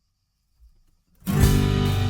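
Near silence, then about a second in a guitar-led song intro starts suddenly with strummed guitar.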